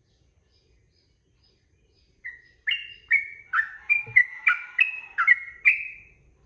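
Sooty-headed bulbul (trucukan) singing: after about two seconds of quiet, a quick phrase of roughly ten short, bubbling whistled notes that ends just before the close.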